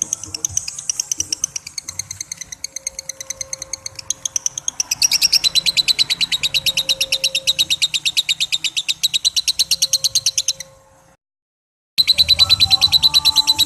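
Lovebird's long 'ngekek' chatter: an unbroken run of rapid, sharp, high repeated notes that grows louder about five seconds in. It cuts off abruptly near the end, leaves about a second of silence, then starts again at full strength.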